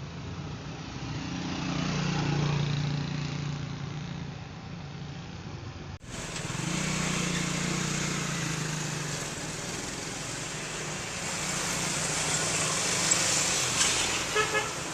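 Road vehicles driving past, their engine sound swelling and fading, in two clips joined by a sudden cut about six seconds in. A few short horn toots sound near the end.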